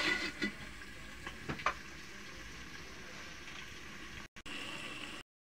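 Chicken and onions sizzling in a covered aluminium pot (sufuria): a steady hiss, with a few light clinks of the metal lid and spoon in the first two seconds. The sound cuts out abruptly near the end.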